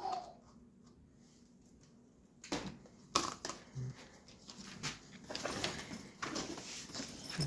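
Plastic coolant bottle and funnel being handled: a couple of sharp knocks, then rustling and clattering near the end.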